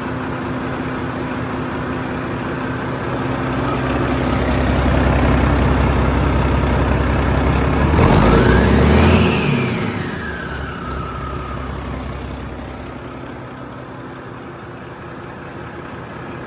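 2007 Mack MP7-325M 10.8-litre six-cylinder diesel engine on a test run: idling, building revs from about three seconds in, revving hard around the middle, then settling back to idle as a whine falls away.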